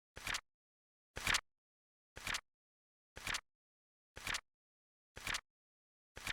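Flip clock sound effect: a short double clack, a quick light flick followed by a louder snap, repeating once every second with dead silence between. Seven clacks in all, ticking off the seconds of the countdown.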